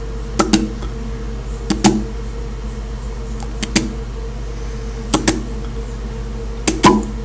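A steady electrical hum, with pairs of short sharp taps or clicks about every second and a half.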